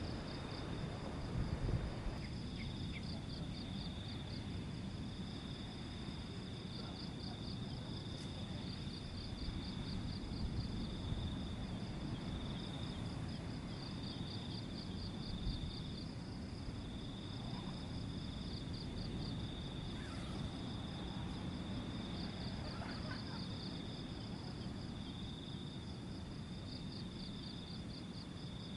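Crickets chirping steadily: one high, continuous trill with a second, higher chirping that comes in pulsed runs of several seconds, over a low steady rumble.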